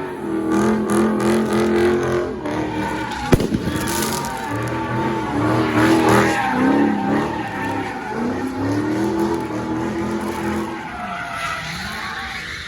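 Car engine revving up and down hard with tyre squeal, as in drifting or a burnout, with a sharp crack about three seconds in.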